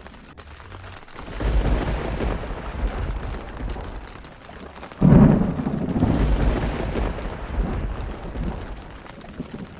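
Thunderstorm with rain. A low thunder rumble swells about a second in, then a sudden loud thunderclap hits about halfway and rolls away over the next few seconds, over a steady hiss of rain.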